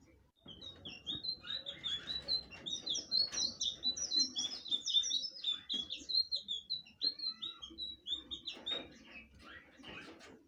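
Blue flycatcher (sikatan biru) in full song: a long, fast run of short, high, sweet notes that starts just under a second in and stops about a second before the end.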